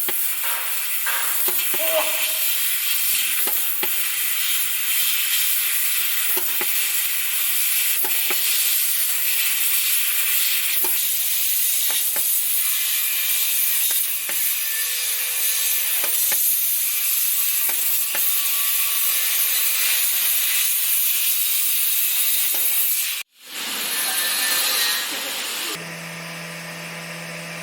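Fiber laser cutter cutting steel plate: a loud, steady hiss of cutting gas with scattered crackling clicks. About 23 seconds in it cuts out abruptly, then the hiss returns, and near the end it is quieter, over a steady low hum.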